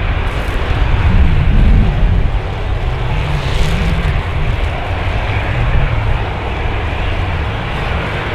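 Airliner's engines passing close by: a loud, deep rumble with a hiss on top, loudest about one to two seconds in, then holding steady.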